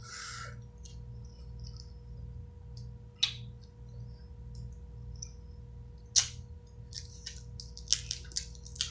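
Eating crab from a seafood boil: scattered sharp cracks and clicks of shells and food being handled, several in quick succession near the end, over a low steady hum.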